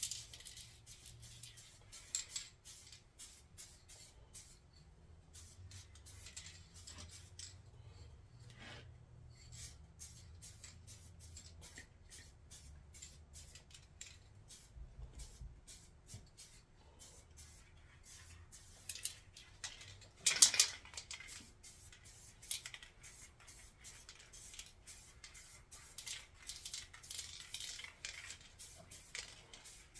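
Aerosol spray-paint can sprayed in many short, irregular bursts of hiss, with one louder burst about two-thirds of the way through, as parts are painted black.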